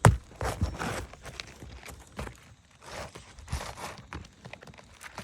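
A sharp knock at the start, then scattered knocks, scuffs and rustling as asphalt roof shingles are handled and worked into place on a roof.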